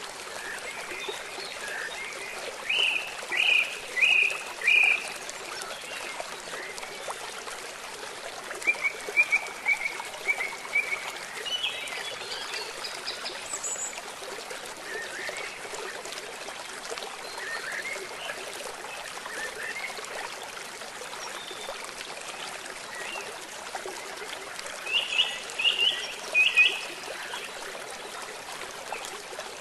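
Steady rush of flowing river water, with small birds chirping in short runs of quick notes several times over it.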